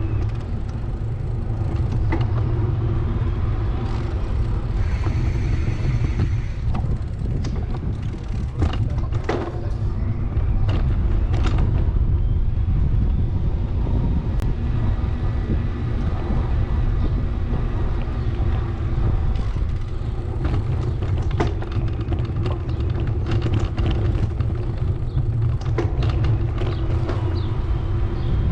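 Steady low rumble of wind and road noise on a camera riding along on a bicycle, with scattered clicks and rattles.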